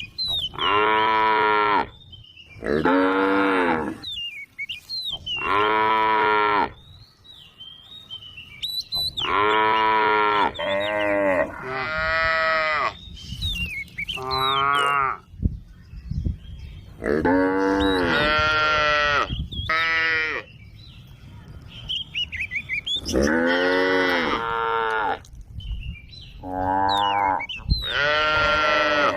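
Cattle mooing over and over: about a dozen long, drawn-out moos, each a second or two long, coming every few seconds. Some calls are higher-pitched than others.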